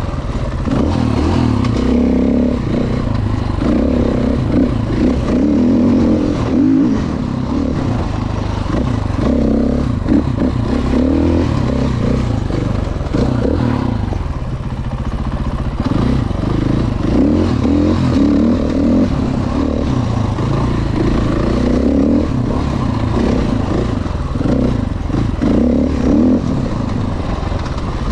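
Dirt bike engine running while being ridden, the throttle opening and easing off every few seconds.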